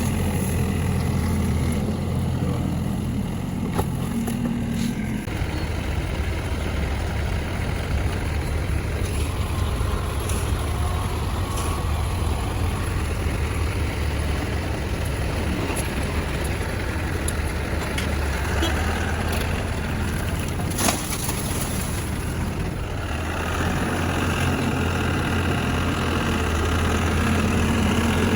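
Heavy vehicle's diesel engine running steadily at a low, even note, with one sharp click about two-thirds of the way through and the engine note filling out near the end.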